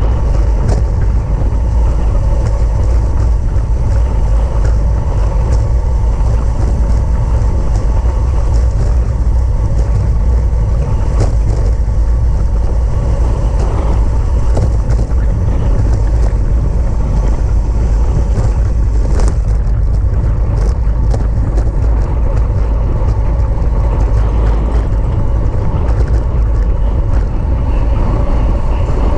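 Steady low rumble of wind on the microphone of a camera travelling with a road bike at race speed, with scattered light clicks.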